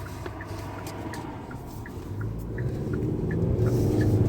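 Car driving, with a steady low engine and road rumble that grows louder about halfway through, and faint light ticks about three times a second.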